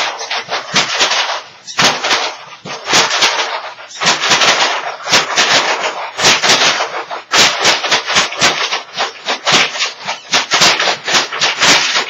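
Handheld shaker instrument shaken hard and fast in an uneven rhythm, a dense run of rattling hissy strokes several times a second.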